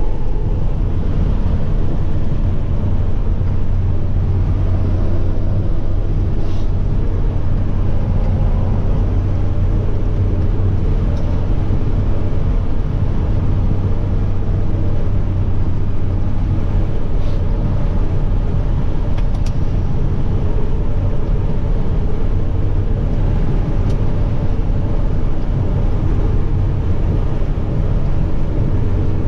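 Diesel semi truck's engine running steadily on the road, a constant low drone with road noise.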